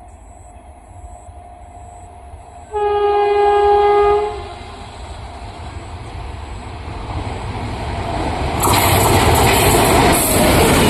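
Indian Railways superfast express sounding its horn in one blast about a second and a half long, then running through at high speed: the rumble of the approaching train grows louder until, near the end, a sudden loud rush of wheels and air as it passes close by.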